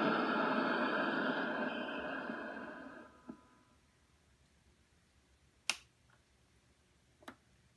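Dense hiss from an old radio's speaker fading away over about three seconds, then three sharp clicks spread over the following four seconds.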